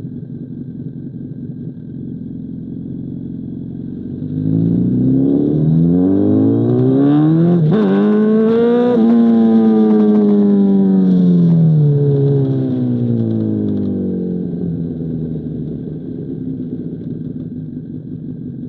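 Honda CBR1000RR inline-four engine breathing through an SC Project CR-T exhaust. It runs low at first, then the revs rise for several seconds with a brief sharp break partway up. The engine holds high and then winds back down to a steady low running.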